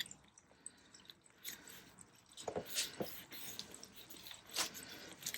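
Paper and card being handled on a craft table: a few faint rustles and light taps.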